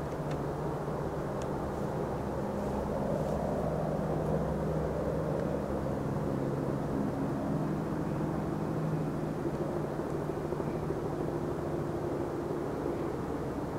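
Rhaetian Railway Capricorn electric train running steadily, a continuous rumble with a low, even motor hum.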